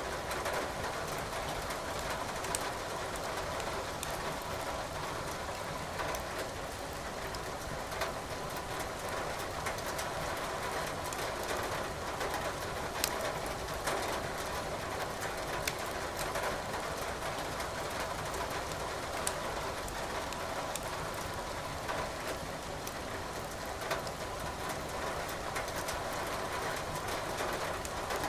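Wood fire crackling in a fireplace, with scattered sharp pops over a steady hiss of falling rain.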